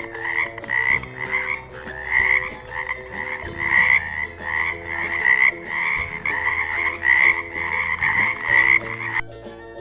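Frog croaking over and over in a regular rhythm, about one and a half croaks a second, stopping near the end.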